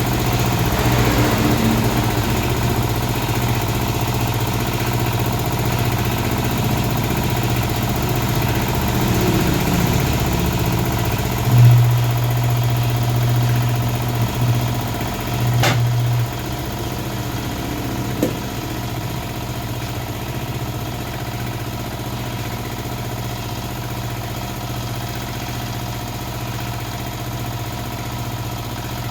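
A motor running steadily with a low hum. It gets louder for about four seconds near the middle, and there is a single sharp click during that louder stretch.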